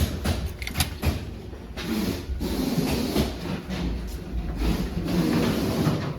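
Factory machinery running in a car door lock workshop, with sharp clicks at first and then a denser, continuous clatter over a steady low hum.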